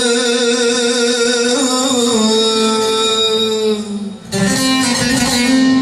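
Turkish folk music (uzun hava) on bağlama and acoustic guitar. A long held note with vibrato steps down in pitch and fades about four seconds in. The strings then come in with a plucked phrase.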